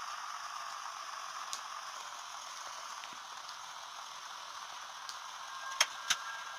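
A steady hiss, with two short sharp clicks near the end.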